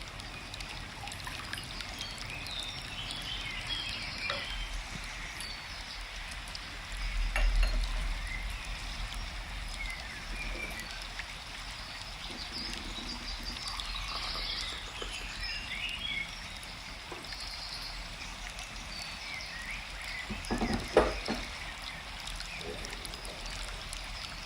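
Forest ambience: small birds chirping here and there over a steady hiss of running water, with a brief low rumble about seven seconds in and a short cluster of knocks near the end.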